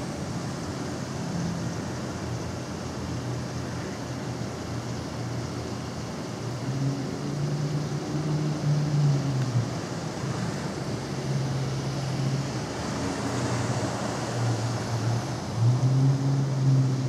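Heavy rain pouring onto a flooded street, a steady hiss, with a low hum that swells and fades a few times.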